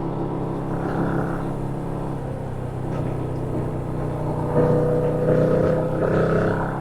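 A 2025 Yamaha MT-07's 689 cc parallel-twin engine running while riding, heard from on the bike. About four and a half seconds in, the revs rise and it gets louder.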